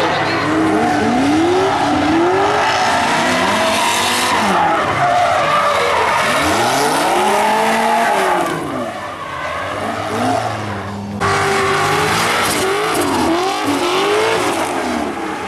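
Drift car engines revving hard, the pitch repeatedly rising and falling, over tyre squeal and skidding. The sound drops back for a couple of seconds past the middle, then comes back suddenly about eleven seconds in.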